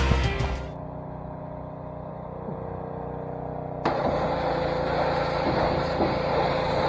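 A gas pressure washer's small engine running steadily; about four seconds in, the spray kicks on with a sudden, louder hiss and a steady whine over the engine. The end of a music track fades out in the first second.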